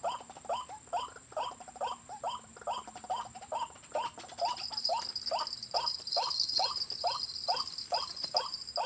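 White-breasted waterhen (ruak-ruak) calls: a fast, even run of short 'kruak' notes, about two to three a second. A thin high buzz joins about halfway through.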